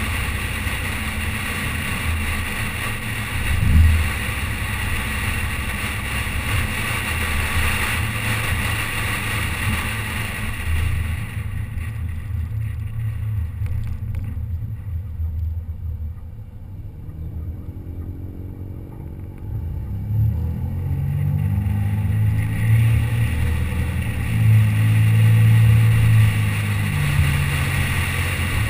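Car driving, its engine running under a steady rush of road and wind noise. About a third of the way in the rushing fades as the car slows, then the engine pulls harder and gets louder again, peaking near the end.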